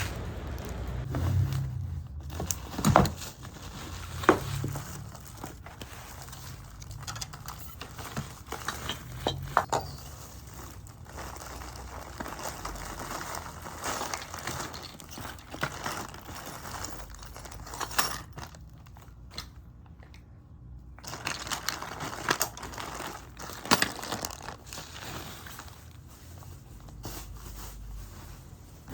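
Packaging being handled and unwrapped: crinkling and tearing, with many scattered clicks and knocks.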